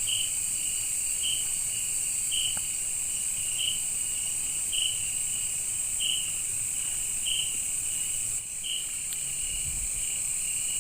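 Night insect chorus in a tropical forest: a steady high-pitched shrill of crickets, with one chirp repeating about once every second and a bit.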